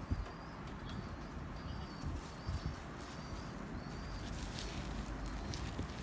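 Faint bird sounds from pigeons: short high chirps repeating about once a second, with soft low thumps and rustling of birds moving about.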